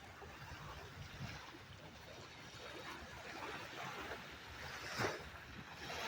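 Moving water and wind on the microphone, with a brief louder rush about five seconds in.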